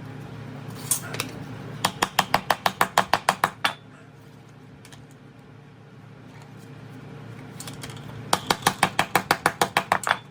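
Quick metallic tapping in two runs of about a dozen strikes each, about six a second, one starting about two seconds in and one near the end, over a low steady hum.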